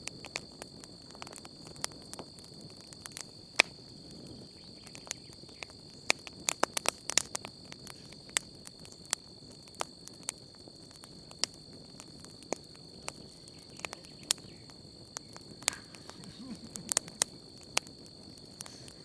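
Wood campfire crackling, with sharp irregular pops that come in a quick flurry about six seconds in and again near the end. Behind it, crickets keep up a steady high trill.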